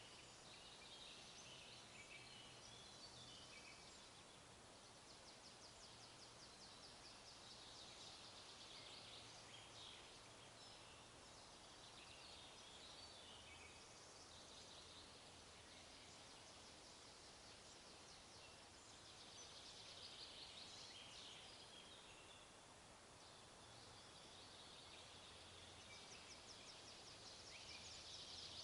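Faint forest ambience: songbirds singing in several bouts of rapid high chirps and trills over a steady low rumble.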